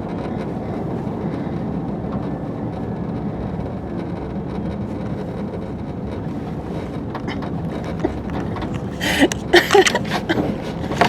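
Steady road and tyre noise inside the cabin of a Rivian R1T electric pickup being driven, with no engine note. About nine seconds in, a cluster of sharp, short knocks breaks in.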